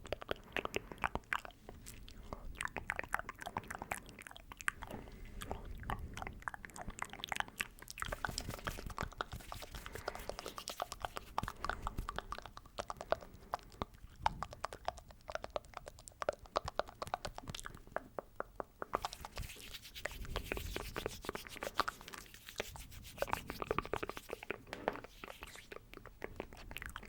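Close-miked ASMR mouth sounds: a dense, continuous stream of wet mouth clicks and smacks.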